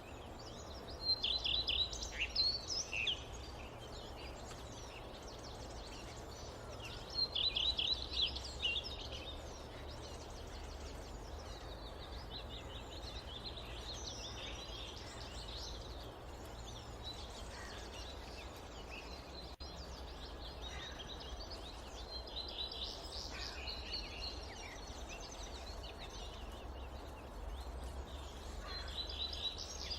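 Wild birds singing in a forest: two bursts of fast chirping phrases in the first ten seconds, then looser calls on and off until the end. Underneath runs a steady low rumble of wind.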